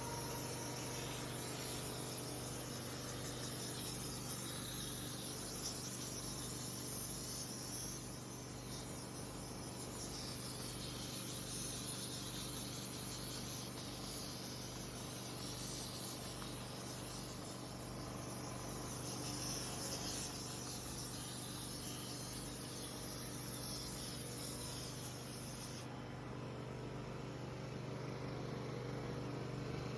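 Small portable generator engine running steadily: an even low hum under a constant high hiss.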